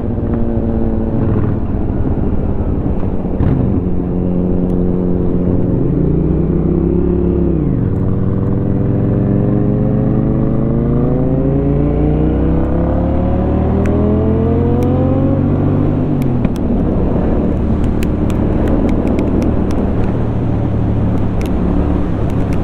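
Honda Shadow 750's V-twin engine with an aftermarket Rinehart exhaust under way, its revs rising and dropping briefly, then climbing steadily for several seconds before easing off, with wind noise. Near the end, a light irregular ticking of the helmet's hook tapping in the wind.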